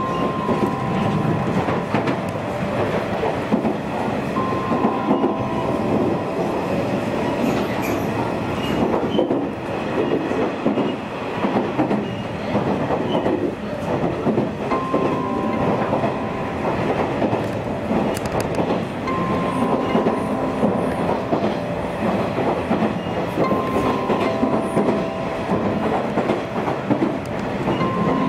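Nishitetsu electric commuter train running at speed, heard from inside the car: a continuous rumble of wheels on rail, with steady high tones that come in and drop out every few seconds.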